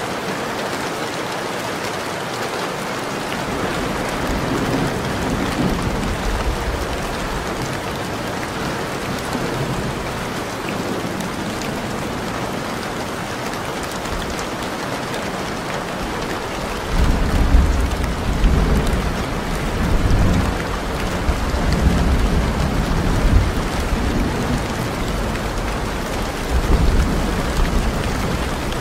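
Onions, ginger and tomato frying and sizzling in oil in an aluminium pressure cooker while being stirred with a wooden spoon. From about halfway through, irregular low thumps and rumbling come and go.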